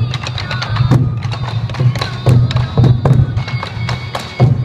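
Sansa odori festival music: many taiko drums beaten together in a steady rhythm of about one and a half beats a second, with sharp clicks between the beats and a bamboo flute (fue) playing high held notes over them.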